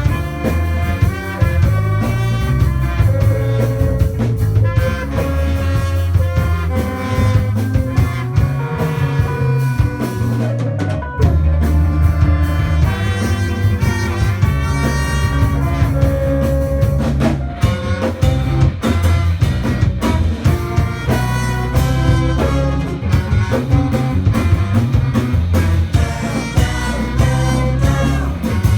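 Live instrumental band playing a jazzy tune: a horn section of saxophone, trumpet and trombone plays melody lines over drum kit and electric bass, with guitar and synthesizer in the band.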